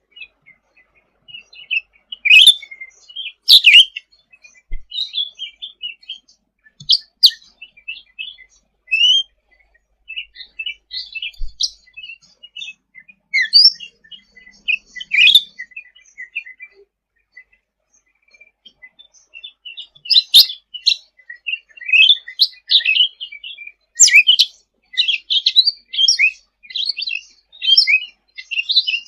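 Cucak ranting singing: bursts of quick, high chirps and short trills, broken by a few seconds' pause just past the middle, then a denser run of chattering toward the end.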